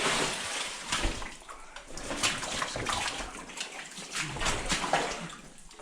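Water sloshing and splashing unevenly, with irregular small splashes.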